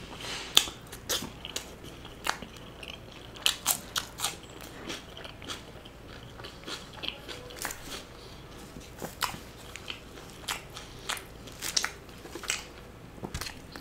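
Close-miked chewing of a mouthful of chicken in thick gravy with butter naan: irregular, sharp smacks and clicks of the mouth.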